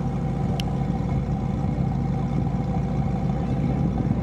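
Lamborghini Huracán Performante's naturally aspirated V10 idling steadily, with one brief high click about half a second in.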